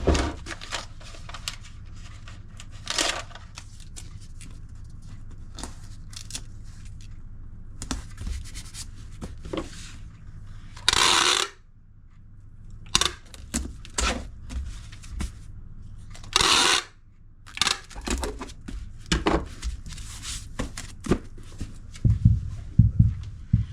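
Hands packing parcels: packaging handled and rustled, with scattered clicks and knocks, two short tearing sounds, and a few heavy thumps near the end, over a steady low hum.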